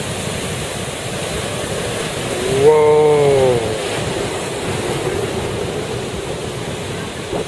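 Steady rush of ocean surf with wind buffeting the microphone. A man gives one long, loud "whoa" about three seconds in.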